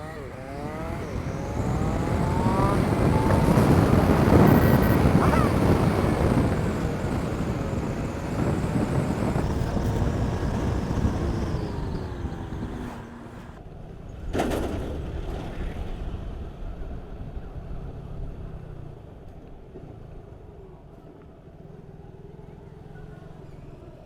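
Motorcycle being ridden on a highway, its engine and wind noise rising as it accelerates over the first few seconds and loudest a few seconds in. The engine note then falls away as it slows, with a brief sharp sound about fourteen seconds in before it settles quieter.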